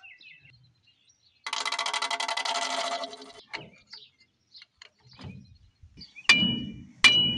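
Two sharp metal-on-metal strikes with a ringing tone near the end, a steel tool hitting the rear brake and axle assembly of an old pickup during an axle shaft swap. Earlier there is a steady buzzing rattle lasting about a second and a half.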